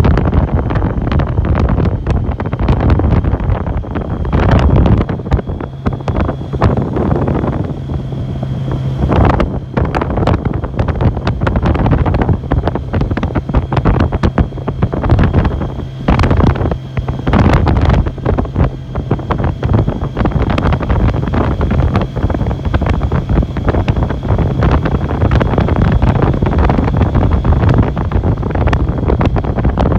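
Wind buffeting the microphone on a moving motorcycle, over the steady low drone of its engine.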